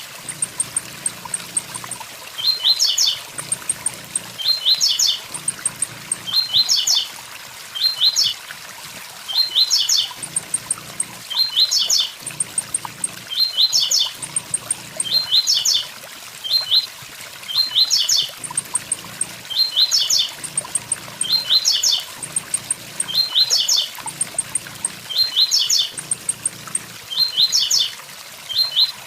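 Blue-black grassquit (tiziu) singing its 'tui tui zel zel' song type: a short phrase of quick rising high notes with a thin ticking series above it, repeated about every two seconds. Behind it runs the steady rush of a waterfall.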